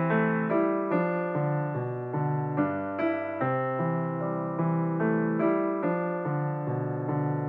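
Background piano music: steady notes struck about twice a second, each dying away.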